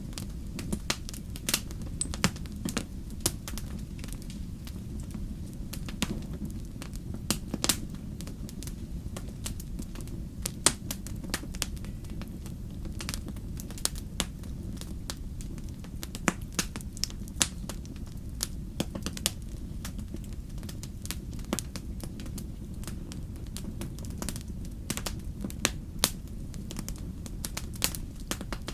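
Wood campfire crackling: irregular sharp pops and snaps of burning wood over a steady low rumble of the flames.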